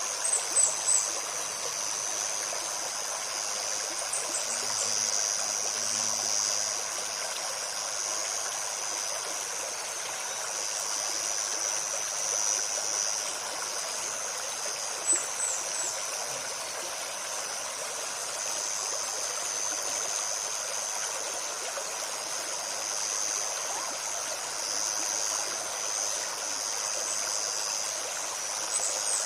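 Shallow stream running steadily over stones, with a continuous high-pitched buzz over it. Short clusters of high bird chirps come three or four times: near the start, a few seconds in, about halfway, and near the end.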